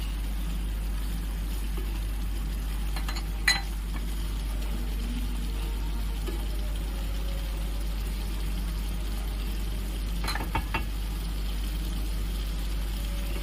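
Masala with pieces of brain bubbling and sizzling in a nonstick kadai while a spatula gently turns it. The spatula knocks sharply on the pan about three and a half seconds in and clicks against it a few more times about ten and a half seconds in, over a steady low hum.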